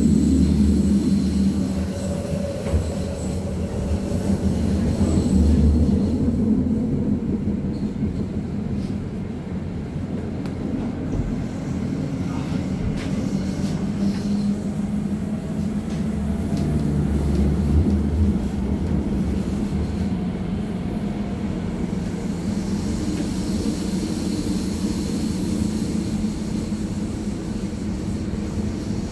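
A Berlin U-Bahn type JK train running, heard from aboard: a steady low rumble of wheels on rail, with a faint motor whine that glides in pitch a few times.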